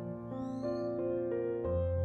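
Soft, slow piano music, single notes changing every few tenths of a second, with a brief high rising glide about half a second in.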